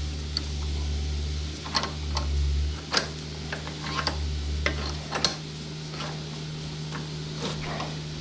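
Hand tools clicking and clinking against metal mower parts while a stuck socket is worked loose: a dozen or so short, sharp clicks at irregular intervals over a steady low hum.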